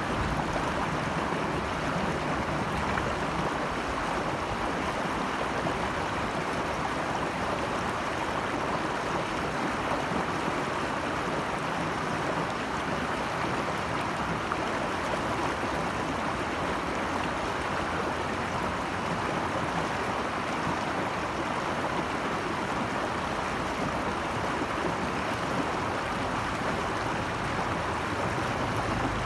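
Rushing water of a mountain stream or waterfall: a steady, even rush with no breaks.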